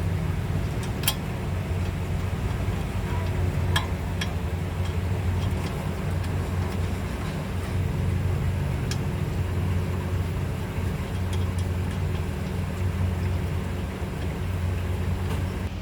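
A steady low rumble with a few sharp metallic clicks, spaced seconds apart, from tools as new nuts are fitted to a Maruti Wagon R's front brake caliper assembly.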